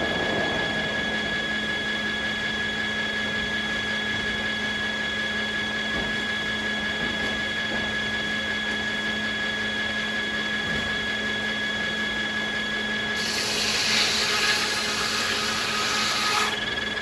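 Sawmill machinery running steadily with a constant whine. For about three seconds near the end, a saw blade cutting through beech adds a hiss.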